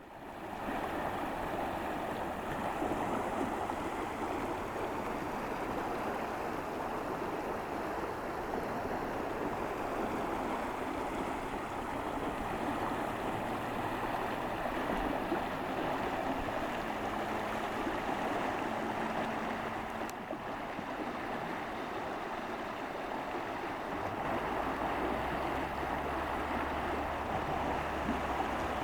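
River in spring flood rushing steadily past, the current driving ice against an ice dam. A low rumble joins in about five seconds before the end.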